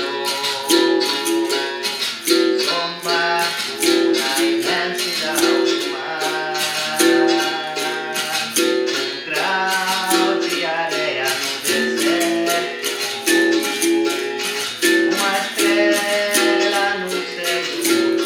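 Capoeira music: a berimbau plays a repeating pattern of short twanging notes against a steady rattle of shaker clicks, with a voice singing a capoeira song over it.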